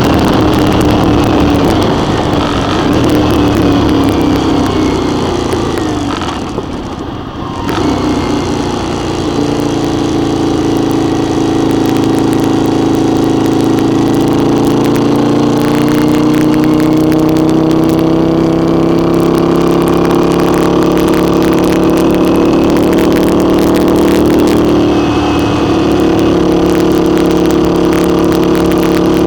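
Motorcycle engine running at cruising speed. About a quarter of the way in the engine note drops and goes quieter as the throttle closes, then it picks back up and runs steadily, its pitch rising slowly.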